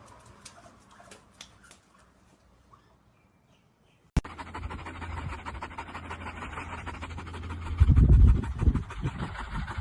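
A dog panting fast and steadily, starting suddenly about four seconds in after faint ticking, with loud low rumbles about eight seconds in.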